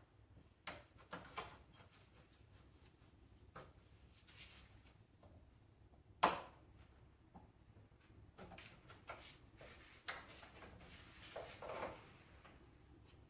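Scattered clicks, knocks and light clatter of the airbox and intake parts being unclipped and lifted out of the engine bay, with one sharp, loud click about six seconds in.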